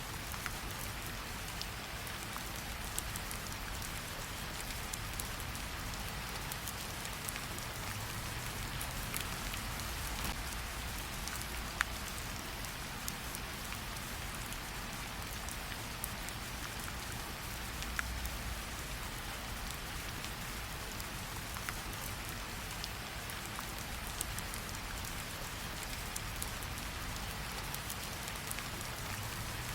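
Steady rain falling, mixed with a campfire's scattered crackles and pops. One pop stands out louder about twelve seconds in.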